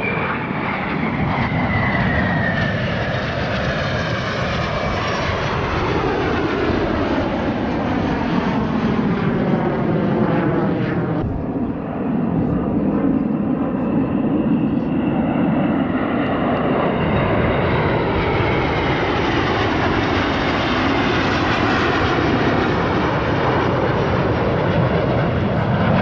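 Alpha Jet display jets flying past with loud, continuous jet noise. A turbine whine falls in pitch over the first few seconds as the jets pass, with a sweeping, phasing quality. From about halfway a whine rises in pitch as more jets approach.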